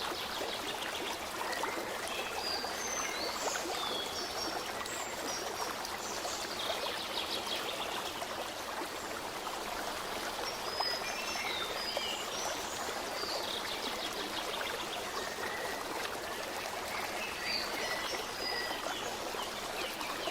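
Water running in a stream, a steady rushing, with many short high bird chirps scattered over it.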